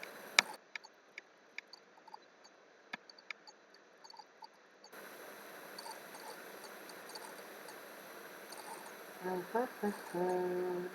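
Scattered sharp clicks from a computer mouse and keyboard, one much louder click about half a second in. Near the end a short murmured vocal sound and a held hum.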